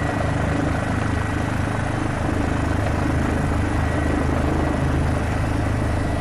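Police helicopter's rotor and turbine engine droning steadily, heard from on board, with a thin steady high whine over it.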